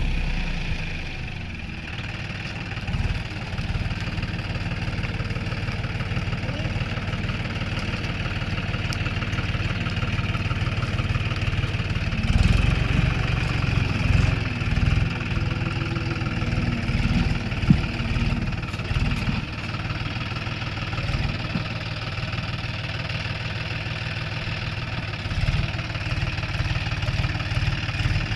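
John Deere 5050D tractor's three-cylinder diesel engine running steadily, with a few louder surges about halfway through and a single sharp knock soon after.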